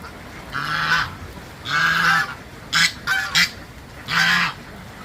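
Domestic ducks quacking loudly: five separate harsh calls about a second apart, some short and some drawn out.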